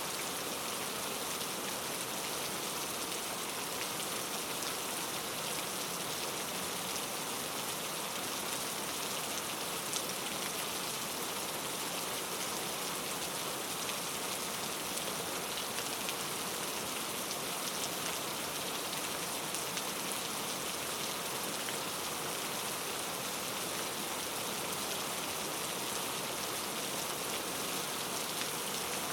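Steady rain falling, an even hiss with scattered drops pattering on a surface and one slightly louder drop tick about ten seconds in.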